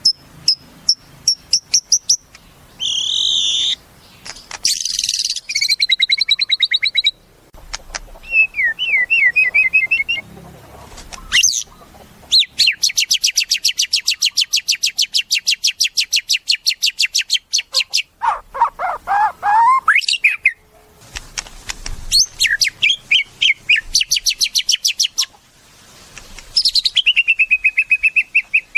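White-rumped shama (murai batu) singing a varied run of loud whistled phrases and fast repeated notes. In the middle is a long, rapid rattling series of about five seconds, and near the end a note sweeps down into another fast string of repeated notes.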